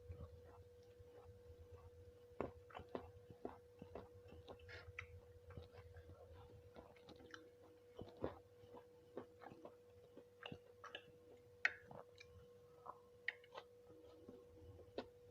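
A person eating nasi kucing: faint chewing with many small clicks and taps scattered throughout, over a steady faint hum.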